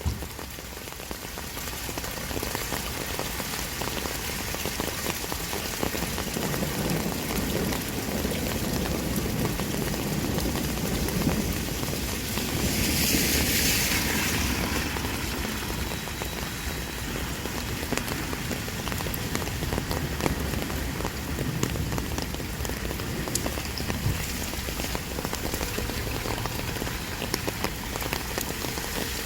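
Heavy pouring rain: a steady dense hiss with scattered drops ticking, swelling into a louder, brighter hiss for a couple of seconds about halfway through.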